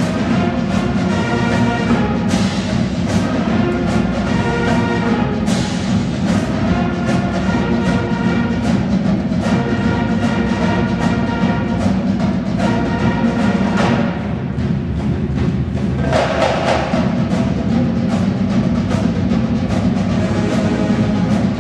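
High school marching band playing a stand tune: sustained wind chords over drums keeping a steady beat.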